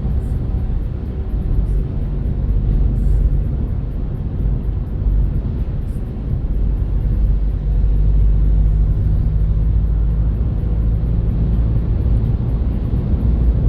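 Renault Kardian driving on the road: a steady low rumble of tyre and engine noise, growing a little louder about halfway through.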